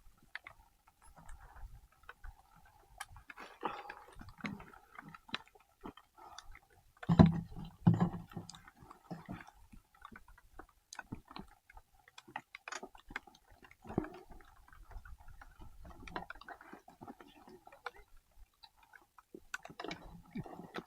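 Irregular small clicks and knocks, with a louder pair of thuds about seven and eight seconds in.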